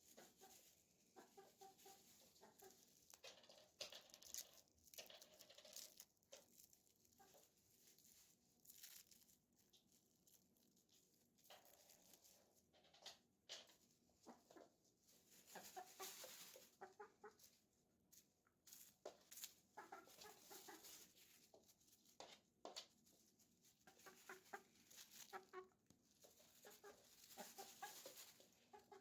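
Pet chicken clucking quietly in runs of short, repeated clucks, with scattered sharp clicks in between.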